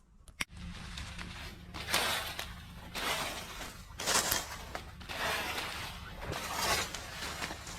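Repeated dry rustling crunches, swelling about once a second, over a steady low rumble, after a sharp click about half a second in.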